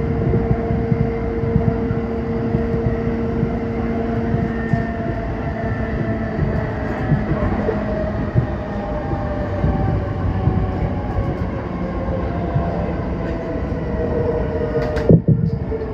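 Train running, heard from inside the carriage: a steady rumble and hum with several tones that slowly fall in pitch, as when the train slows. A sharp knock comes near the end.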